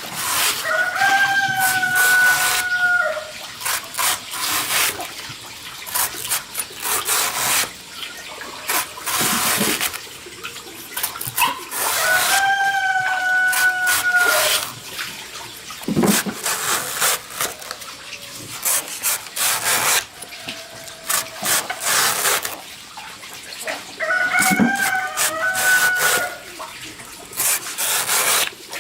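A rooster crowing three times, each crow about two seconds long and about eleven seconds apart. Noisy rustling or splashing sounds run between the crows.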